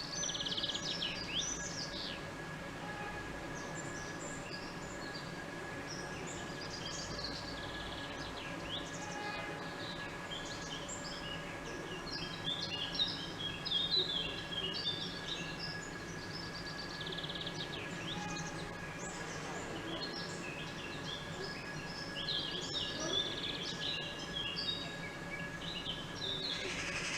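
Small birds chirping and twittering in short, quick phrases throughout, busiest around the middle and again near the end, over a steady low background hum.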